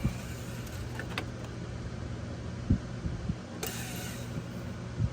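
Engine oil dipstick being handled for a fresh reading: a few soft knocks and a brief swish a little past halfway, over a steady low hum.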